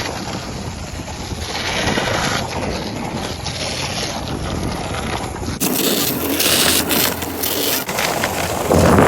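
Rushing noise of wind on the microphone with the rumble of longboard wheels rolling on pavement. The sound changes abruptly about halfway through and again near the end.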